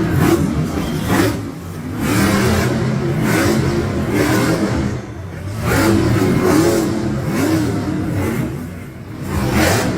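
Monster truck engine revving hard in repeated surges, its pitch rising and falling, easing off briefly a few times between bursts.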